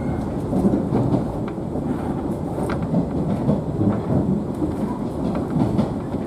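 Steady low rumble of a 113-series electric train's motor car running on the line, heard from inside the car, with faint scattered clicks from the running gear.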